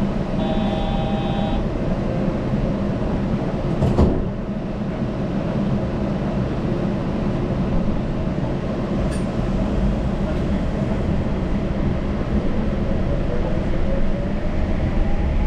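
Yurikamome Line rubber-tyred automated train running with a steady low rumble. A brief high electronic tone sounds about half a second in and lasts about a second, a sharp knock comes about four seconds in, and a faint rising whine builds over the last few seconds.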